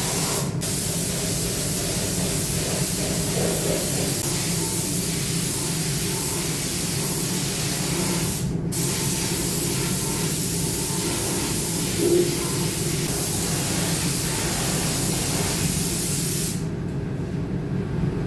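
Primer being sprayed onto motorcycle wheels: a steady hiss of spraying with two brief breaks where the spray stops, about half a second in and about eight and a half seconds in. The spray cuts off a second or two before the end, leaving a steady low hum.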